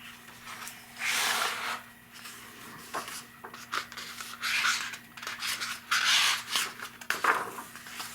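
Paper rustling: the pages of a picture book being handled and turned, in several short rubbing swishes with small clicks between them.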